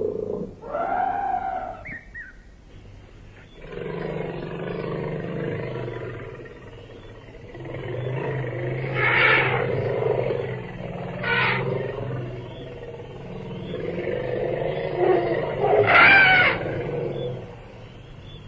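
Elephant vocalizing: long low calls, with three louder, higher-pitched calls about nine, eleven and sixteen seconds in.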